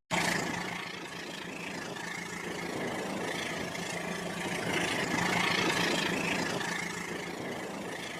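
Battery-powered toy train running on its plastic track: a small electric motor's whir with wheel noise, getting louder about halfway through and then easing off.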